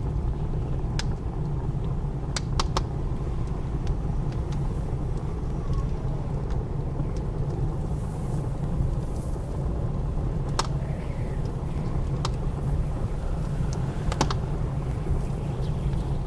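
Wood fire crackling, with sharp pops every second or few, over a steady low rumble of blizzard wind.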